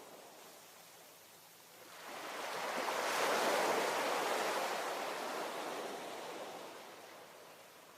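Ocean waves: a single wave surges in about two seconds in, peaks, and washes out slowly, fading over the next few seconds.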